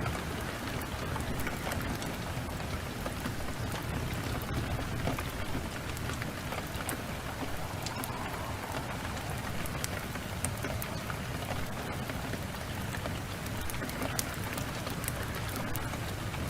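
Steady heavy rain, an even hiss, with scattered sharp crackles from a wood fire.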